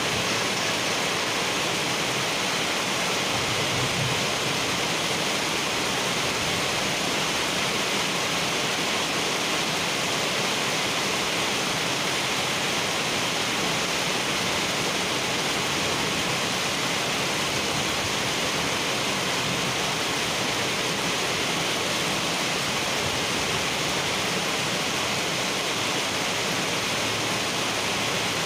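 Heavy rain falling steadily on wet asphalt: a dense, even hiss with no thunder.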